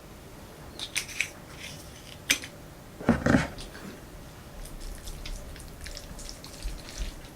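Close-miked eating of Jjapaghetti noodles: a few sharp clicks, a louder slurp about three seconds in, then soft, wet chewing clicks.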